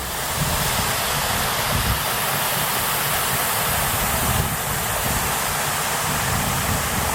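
Waterfall's rushing water, a steady dense hiss with an uneven low rumble underneath.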